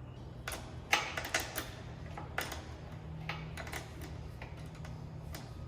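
Irregular light metallic clicks and ticks from hand tools working a motorcycle's rear-axle chain adjuster, the sharpest about a second in, over a steady low hum.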